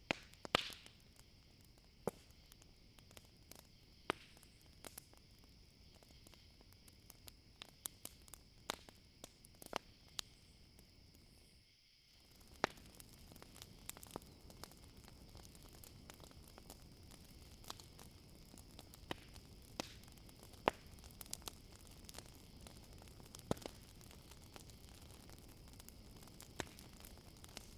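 Campfire crackling with sharp, irregular pops and snaps over a steady high-pitched chorus of night crickets. The background briefly drops out about twelve seconds in.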